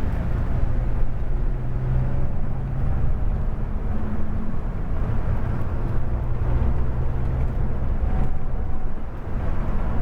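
Scania K410 coach under way: a steady low engine drone with road rumble, the engine note holding even.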